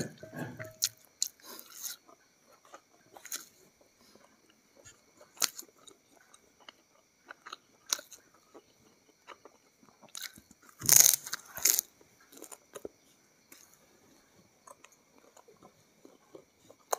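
Close-miked chewing and crunching of fried chicken, in scattered small crunches with a louder burst of crunching about eleven seconds in.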